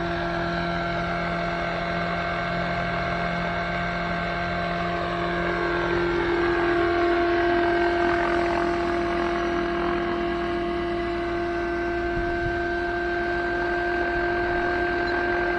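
Radio-controlled helicopter's O.S. 91 model engine running at a steady pitch in a hover, its speed held constant by the governor. It gets a little louder about six seconds in.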